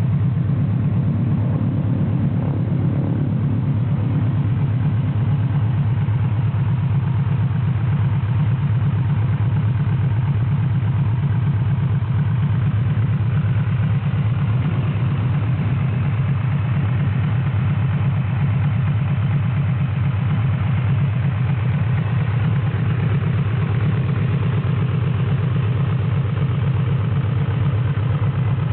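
Yamaha VMAX 1700's V4 engine idling steadily through an RC Koshien HITMAN titanium slip-on exhaust with four silencer outlets.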